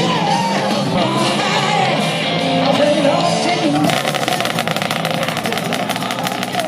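Rock music with a singing voice, which cuts off about four seconds in to a motorcycle engine running with a fast, even pulse.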